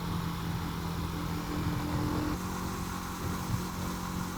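Rieju 307 motorcycle engine running at steady revs under wind rush while riding, its note shifting slightly about two and a half seconds in.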